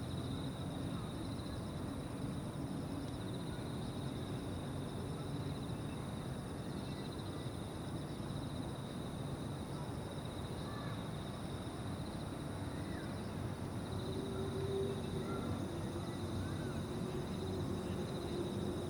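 Riverside dusk ambience: a steady chorus of insects trilling high and continuously over a low, even rumble, with a few faint, short bird calls.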